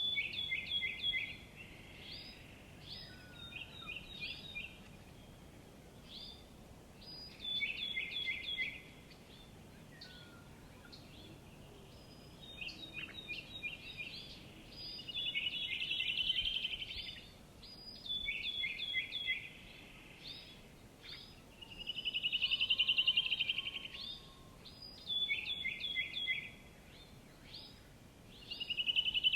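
Songbird singing: short phrases of quick, repeated high notes every few seconds, with rapid trills in the second half that are the loudest part.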